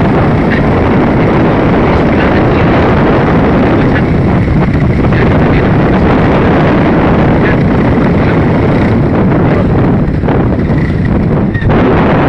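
Loud, steady rush of wind on the microphone and vehicle road noise while riding at high speed.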